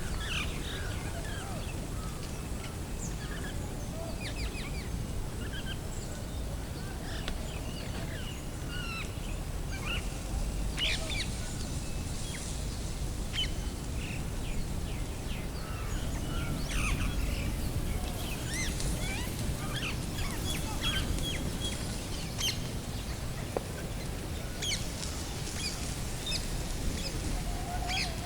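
Many birds chirping and calling in short, high notes, scattered irregularly, over a steady low rumble.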